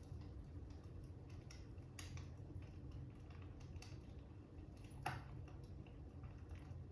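Fire crackling: sparse, irregular small pops over a low steady rumble, with one louder pop about five seconds in.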